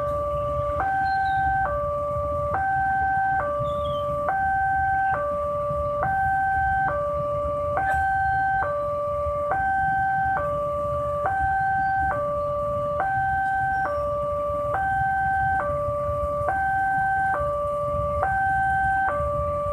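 Electronic warning alarm of a railway level crossing sounding, two tones alternating evenly, a lower and a higher, each held just under a second. A steady low rumble runs beneath it.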